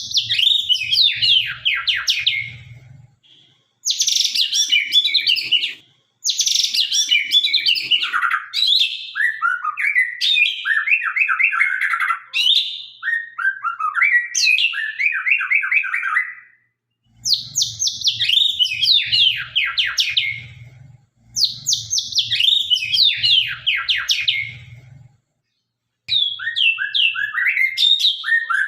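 White-rumped shama (murai batu) of the Sabang line singing hard: a run of loud, sharp phrases of rapid, mostly falling whistled notes, each a few seconds long with brief pauses between. A faint low hum lies under some of the phrases.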